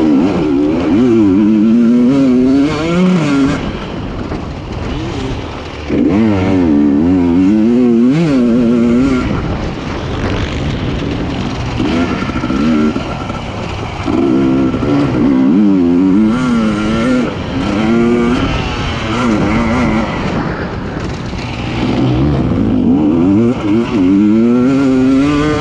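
Husqvarna TE300i's two-stroke single-cylinder engine revving up and backing off over and over as the bike is ridden hard, its pitch climbing and falling in repeated surges.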